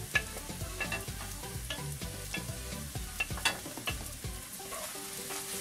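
Cubed carrots sizzling in hot oil in a wok while chopped ginger, hot pepper and pimentos are scraped off a plate into it with a wooden spoon, with many short clicks and scrapes of the spoon against the plate. A steady low tone comes in near the end.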